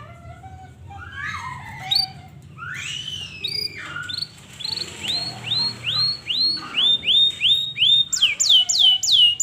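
Canary singing: a varied run of chirps and warbles, then a series of repeated downward-sweeping notes, about two or three a second, getting louder and quicker toward the end.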